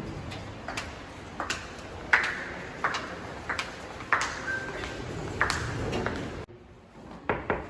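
Hard-soled shoes on a hard floor, walking footsteps clicking about twice a second over a steady hum. Near the end the hum drops away suddenly, and a few quick knocks on a door follow.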